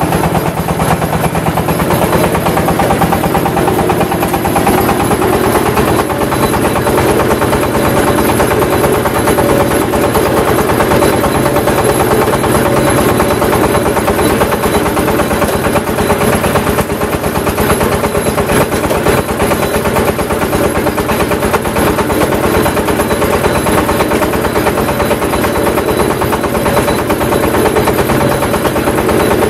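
Automatic clay brick press machine running loudly and steadily: a continuous mechanical hum with a fast, unbroken rattle.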